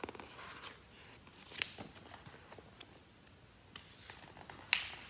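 Pages of a picture book being handled and turned: faint paper rustling with a few short crisp ticks, the sharpest one near the end.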